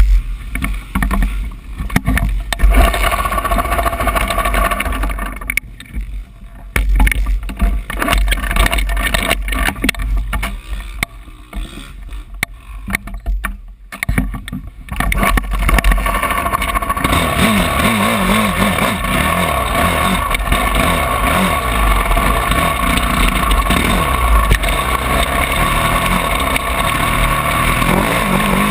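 Wind buffeting and knocking on a GoPro microphone for roughly the first half. Then a Honda CRF450 single-cylinder four-stroke motocross bike engine takes over, running steadily with its pitch wavering up and down.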